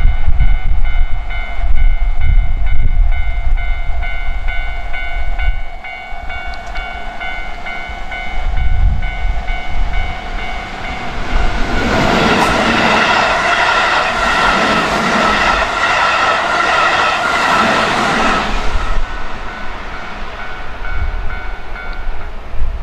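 Keihan 3000-series electric train passing close by, a loud rush of wheels on rail from about 12 to 19 seconds in. A level-crossing warning bell rings steadily until near the end.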